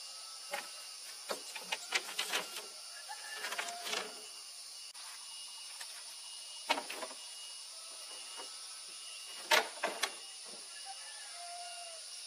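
Steady high insect hiss, like crickets, with scattered irregular clicks and knocks in small clusters.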